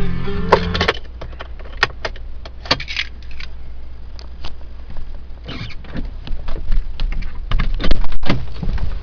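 Scattered clicks and rattles, like keys and small parts being handled, over a steady low rumble, with a louder clatter near the end. A short stretch of music stops about a second in.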